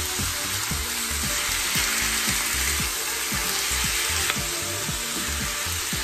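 Chopped chicken backbone pieces and sliced onion sizzling steadily in hot oil in a frying pan, with a spatula stirring them in repeated strokes.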